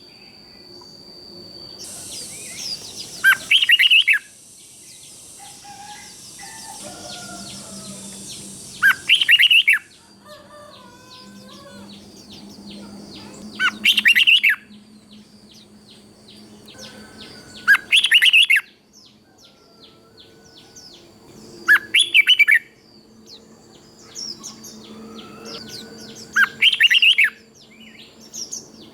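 Red-whiskered bulbul singing its short, loud, whistled song phrase over and over, about every four to five seconds, with fainter bird chirping in between.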